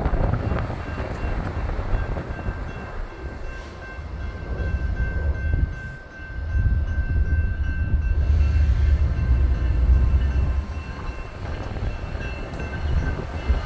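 Train moving on the tracks: a low rumble that dips about six seconds in and then swells again, with a few faint, thin steady whines above it.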